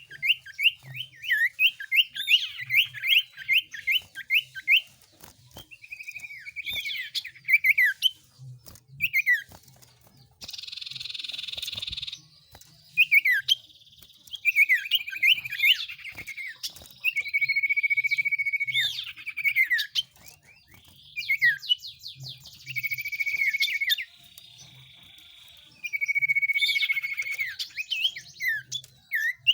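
Lure recording of small songbird calls, the kind used to draw in cipoh (common iora) and similar birds: quick series of sharp, sweeping chirps and short whistled notes, broken every few seconds by harsh hissing passages.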